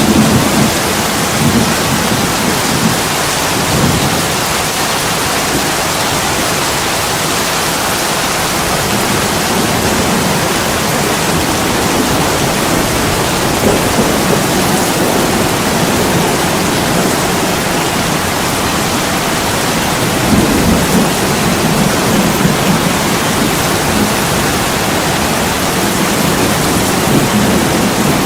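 Heavy rain pouring onto window glass as a steady, dense hiss, with low rumbles swelling now and then.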